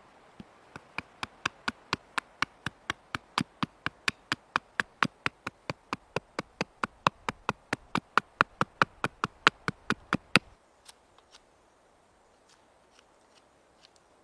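A fast, even series of sharp taps, about four a second, getting louder for about ten seconds and then stopping abruptly, followed by a few faint scattered taps.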